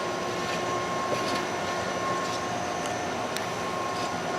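Steady mechanical drone with a few held whining tones over a constant rushing noise, from running machinery.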